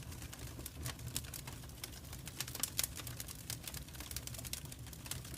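Wood fire crackling in a fireplace: irregular sharp snaps and pops over a low steady rumble, with a few louder pops about two and a half seconds in.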